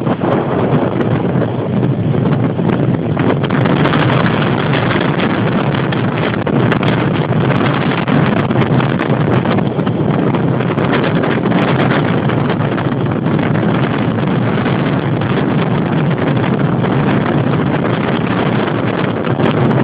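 Strong wind of 20 to 35 knots blowing across a phone's microphone: a loud, unbroken rush of noise that flutters with the gusts.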